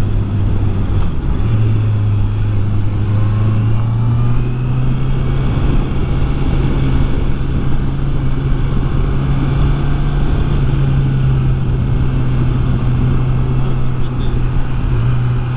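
Honda CBR650R's inline-four engine running steadily under way, its low tone stepping up in pitch a little twice in the first few seconds and then holding, with wind and road noise on the helmet-mounted microphone.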